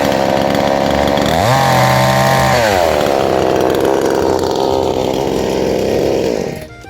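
Counterfeit 'Honda' 72cc two-stroke chainsaw running, revved up and back down once, then held at a steady speed before the sound cuts off near the end.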